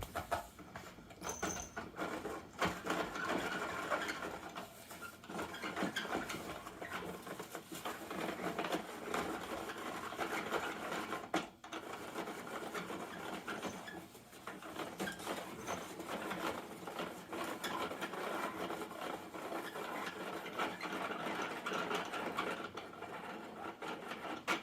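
Plastic toy garbage truck being handled, its plastic parts clicking and rattling in a dense, continuous crackle that breaks off briefly twice near the middle.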